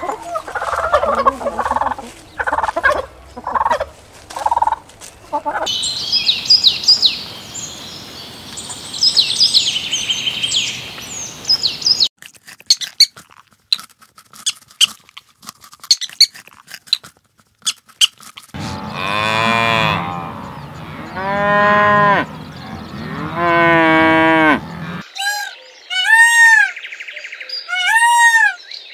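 A run of farm and zoo animal calls. First, turkeys gobbling in rapid pulses for about five seconds, then high bird chirping, then scattered clicks. Next come three long moos from cattle, and near the end a run of short, loud, arching peafowl calls about a second apart.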